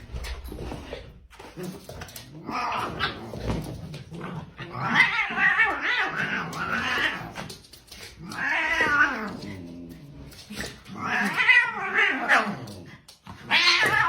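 Domestic cat yowling: a string of about five long, wavering, drawn-out calls with short pauses between them.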